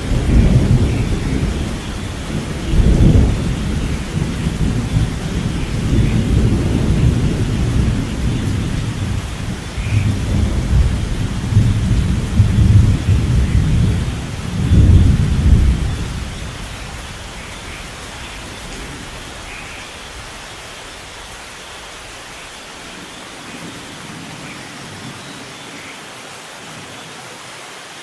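Thunderstorm: long rolls of thunder with heavy rumbling peaks that fade out about halfway through, over steady rainfall that carries on alone afterwards.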